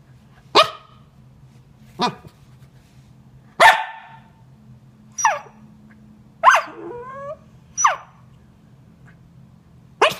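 Pembroke Welsh Corgi puppy barking: about seven short, sharp barks a second or so apart, one midway trailing into a brief falling whine. The puppy is frustrated and demanding a toy that is being hidden from her.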